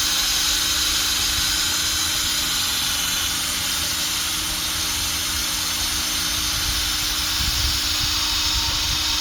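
Electric drill with a sanding pad running steadily, 800-grit sandpaper hissing across a plastic headlight lens.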